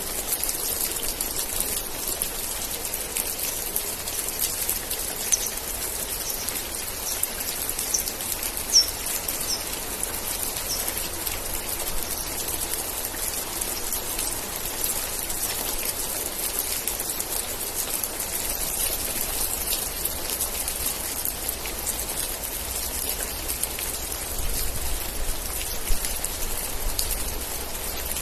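Steady rain falling, a dense hiss of drops with a few louder single drips. A run of short high chirps sounds between about five and eleven seconds in, and a faint low rumble comes in during the second half.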